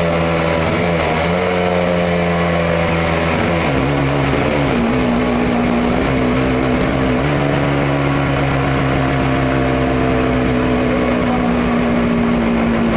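Suzuki GT250 X7's 250 cc two-stroke parallel twin running under load on a rolling-road dyno, its rear tyre spinning the steel roller. The revs drop about four seconds in, then hold steady.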